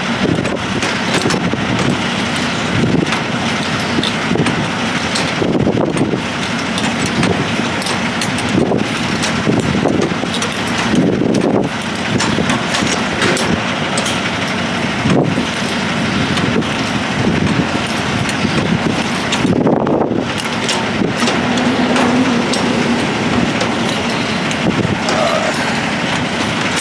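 Semi truck running, a loud steady engine and vehicle noise with swells every second or two.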